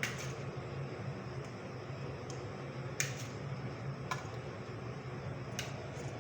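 A few sharp clicks and taps, spaced unevenly a second or so apart, typical of a utensil knocking on a plate while fries are served, over a steady low hum.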